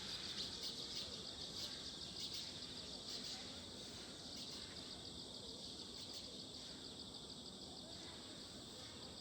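A steady chorus of insects: a dense, high-pitched, fast-pulsing trill that runs on without a break.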